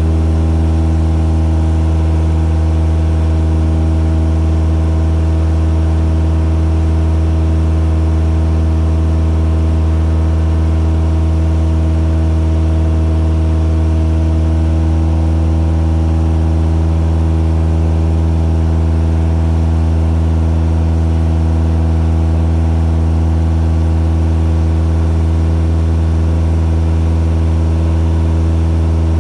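Cessna 172's piston engine and propeller running loud and steady at constant revs, a deep even drone with no change in pitch.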